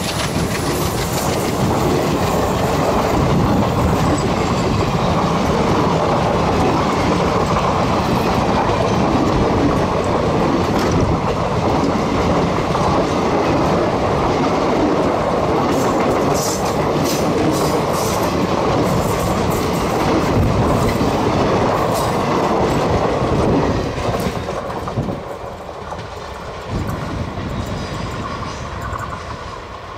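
Express train coaches passing close at speed, their wheels rumbling and clacking over the track in a dense, steady din. About 24 seconds in the sound drops sharply as the last coach goes by, then fades as the train runs away around the curve.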